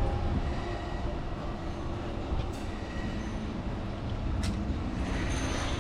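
Audi RS4's 4.2 FSI V8 idling, a steady low rumble.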